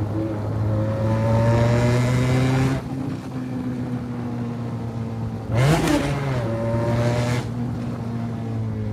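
Benelli 302 motorcycle's parallel-twin engine through an open straight-pipe exhaust with no silencer, revving up and dropping back: a rise in pitch that falls away suddenly about three seconds in, then a sharp throttle blip around the middle before it settles lower.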